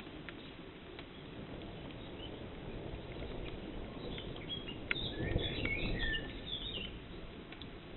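A songbird warbling in short bursts about four to six and a half seconds in, over a steady low outdoor rumble with a few scattered sharp ticks.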